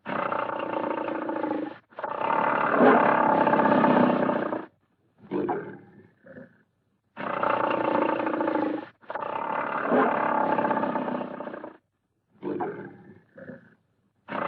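Recorded big-cat roar sound effect played twice in a row: each round is two long roars followed by a few short grunts, with dead silence between the parts.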